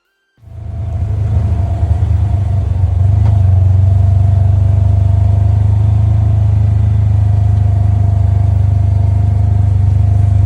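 Steady, loud low rumble of a running engine, starting suddenly about half a second in, with a faint steady whine above it.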